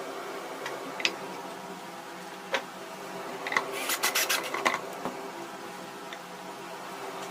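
Hand scraping and rubbing on a workpiece, with scattered clicks and a quick run of scraping strokes about four seconds in, over a steady hum.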